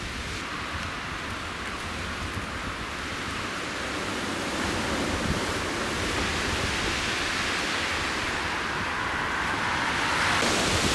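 Windstorm gusts rushing steadily, a hissing noise that slowly builds and swells near the end.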